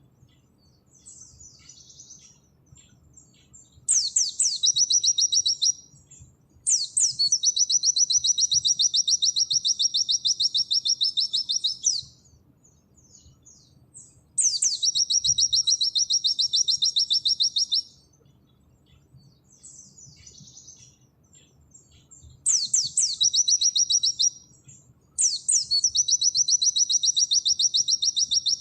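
A pleci (white-eye) singing its rapid 'nembak' song: five bouts of fast, high trilling, each opening with a few quick downward-sweeping notes and running two to five seconds, with soft twittering in the pauses between.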